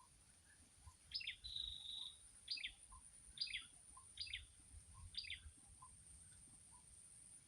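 A bird calling: six short, sharp, falling double notes about a second apart, the first followed by a briefly held whistle.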